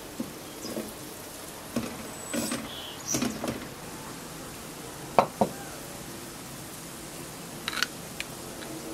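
Chopped onions frying in oil in a metal pot with a steady low sizzle, while a wooden spoon stirs and knocks against the pot. About halfway through come two sharp clinks, with a few more short clicks near the end.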